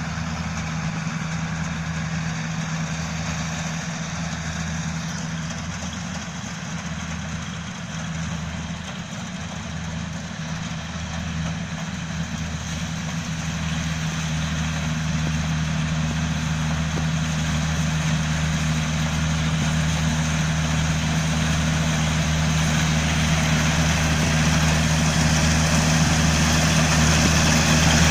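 Small combine harvester's engine running steadily under the clatter of its harvesting machinery, growing louder over the second half.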